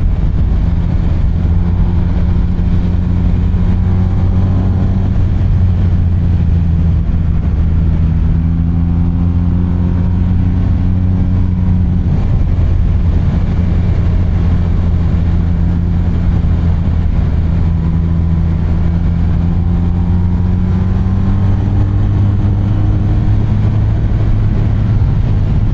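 BMW R 1250 RT's boxer-twin engine running steadily under way, its pitch rising and falling gently with the throttle through the turns, over steady wind and road noise.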